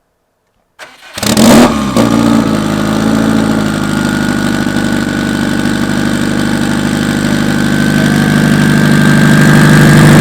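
Built turbocharged Subaru WRX STI 2.5-litre EJ257 flat-four with a hood-exit exhaust and wastegate dump starting up: it catches about a second in with a loud flare, then settles into a loud, steady idle. A faint whine rises slowly in pitch through the idle, and the engine gets a little louder toward the end.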